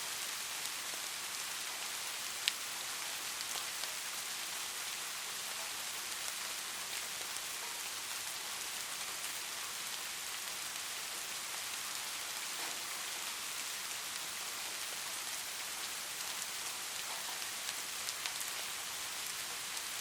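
Light rain falling steadily, an even hiss with scattered sharp ticks of single drops, one louder tick about two and a half seconds in.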